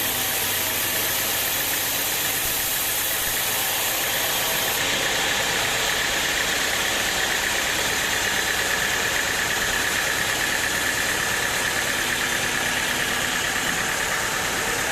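Sawmill machinery running steadily, a continuous mechanical noise with a strong hiss; about five seconds in, a steady higher whine comes in.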